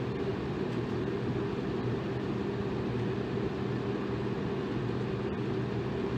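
Electric fan running steadily: a constant whoosh of moving air with a low motor hum underneath.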